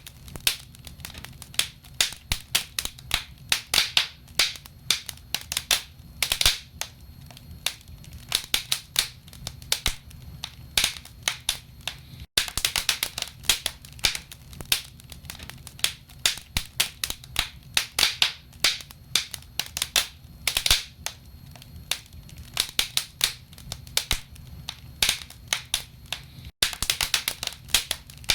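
Wood fire crackling in a fireplace: dense, irregular snaps and pops of burning logs over a low, steady rumble.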